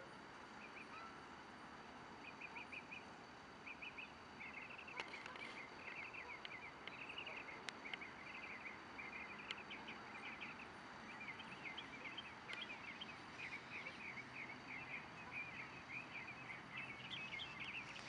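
Birds calling in a dense, rapid chatter of short high chirps, starting about two seconds in and getting busier toward the end, over a faint steady background hiss.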